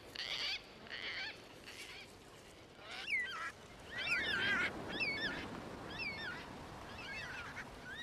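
Cockatoos calling: a few short harsh calls at the start, then a series of about five wavering calls, roughly one a second.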